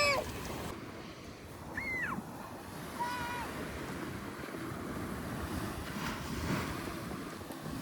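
Sea surf washing onto a beach: a steady rush of breaking waves.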